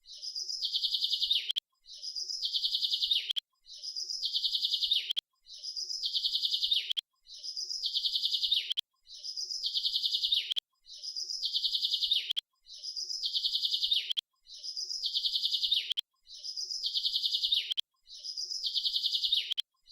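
A bird's chirping trill: the same short, rapid phrase about a second and a half long, repeated at even intervals roughly every two seconds, as in a looped recording.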